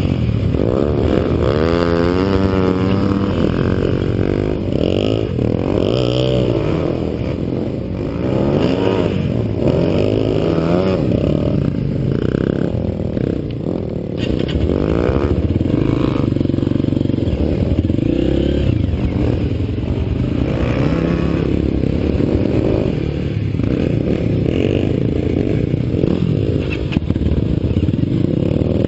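Dirt-bike engine running under way, its pitch rising and falling again and again as the rider works the throttle and gears, with some clatter from the bike.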